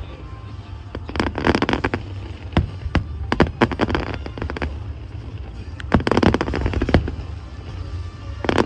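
Aerial fireworks bursting at a fireworks display: repeated sharp booms and crackling shells coming in clusters, with the loudest bursts about a second and a half in and again about six seconds in, over a steady low rumble.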